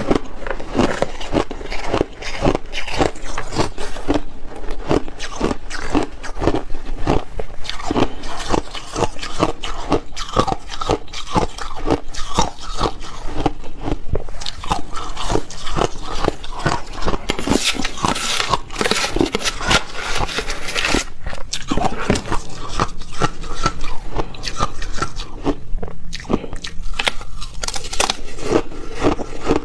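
A person biting and chewing ice close up: rapid, irregular crunches, several a second, with a brighter, hissier stretch of crunching about two-thirds of the way through.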